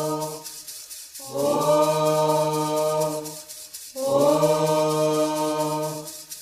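Sung Candomblé Ketu chant for Xangô in Yoruba, voices holding long steady notes: one note ends just after the start, then two more of about two seconds each follow with short breaks between them.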